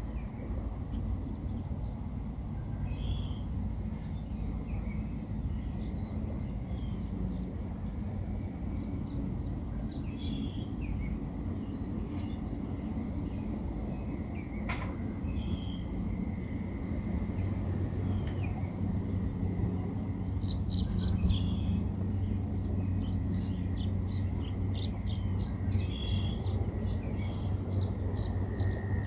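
Wind rumbling on the microphone, with small birds chirping on and off, more often in the second half. A single sharp click about halfway through.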